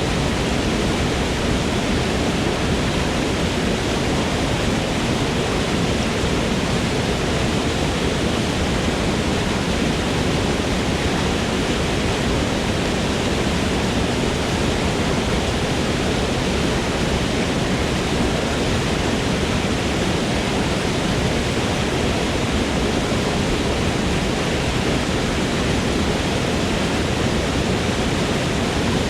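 Waterfall in a forest: water falling and rushing as a steady, unbroken roar with no change in level.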